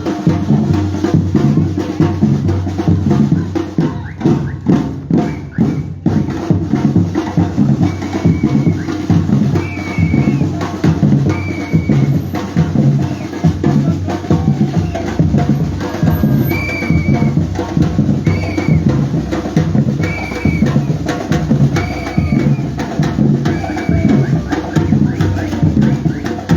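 Batucada drumming: a group of bass drums and smaller drums playing a steady, fast samba-style rhythm. From about eight seconds in, a short high tone sounds roughly every two seconds.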